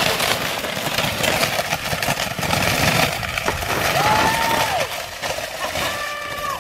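Skis and poles crunching and scraping over cold snow in a steady rush of noise, with two short squeaks, one about four seconds in and one near the end.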